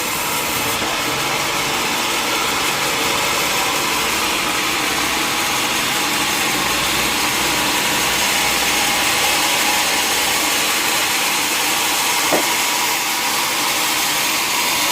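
Sawmill machinery running with a steady, loud noise, and a single short tap about twelve seconds in.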